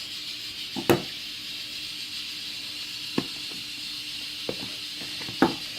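Steady steam hiss from a rice cooker cooking rice, with a faint hum under it. Four sharp knocks cut through it, the loudest about a second in.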